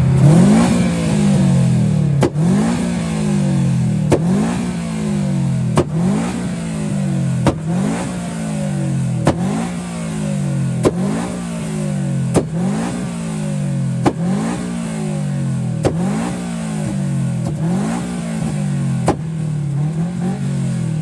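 Car engine revved over and over, about a dozen blips each a second and a half or so apart: each one climbs quickly, falls back more slowly, and comes with a sharp crack.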